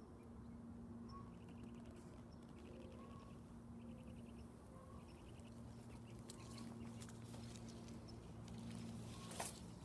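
Faint outdoor ambience: a bird gives four short, rapid trills in a row, about one a second, over a steady low hum. A few clicks follow near the end, one of them sharp.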